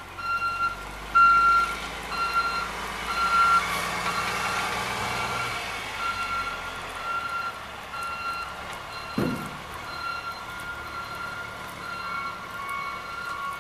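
A truck's reversing alarm beeping steadily, about one and a half beeps a second, over the low rumble of a running engine that fades about seven seconds in. There is a short thump about nine seconds in.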